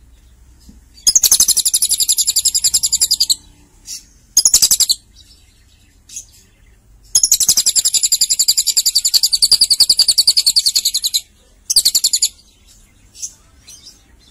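Lovebird singing long, fast chattering trills: a trill of about two seconds, a short burst, then a second trill of about four seconds, followed by one more short burst.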